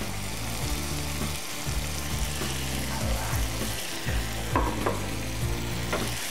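Diced red bell pepper and green peas sizzling in a non-stick frying pan. They are stirred with a wooden spatula that scrapes and knocks against the pan a few times in the second half.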